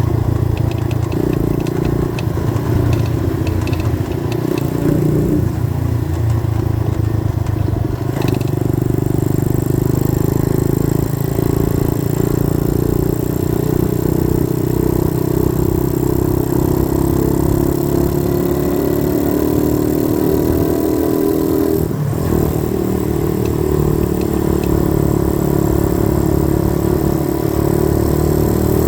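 A 90cc dirt bike's small engine running steadily while being ridden, with two brief breaks in the engine note about eight and twenty-two seconds in.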